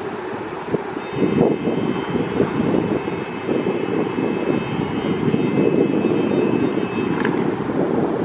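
A train running through the station with a steady rumble. Faint high steady tones sound through the middle, and a short falling squeal comes about seven seconds in.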